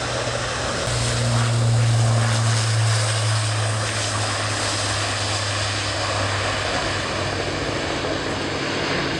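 Airbus A400M Atlas turboprop engines running: a steady low propeller drone over broad engine noise, loudest a second or two in and fading somewhat in the last couple of seconds.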